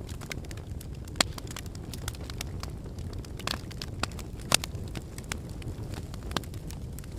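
Wood fire burning in a fireplace: a steady low rumble of flames with frequent small crackles and two louder sharp pops, about a second in and halfway through.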